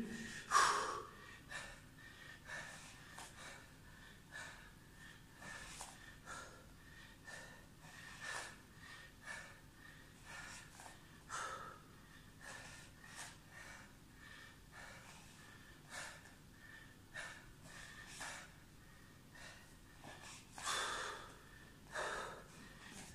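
A man breathing hard through a strenuous bodyweight exercise: short, sharp exhales about once a second, with two louder ones near the end.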